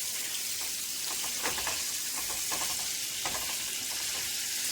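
Skin-on chicken breast pieces sizzling as they fry in melted butter in a pan: a steady high hiss with scattered sharp pops.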